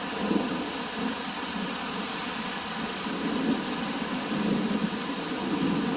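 Steady hiss of rain with wind gusting on the microphone, swelling and easing every second or so.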